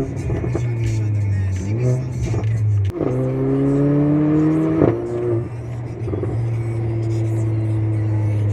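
Car engine under acceleration, its pitch climbing and dropping at gear changes, the longest pull rising for about two seconds before a sharp drop near the middle, then a steady cruising drone.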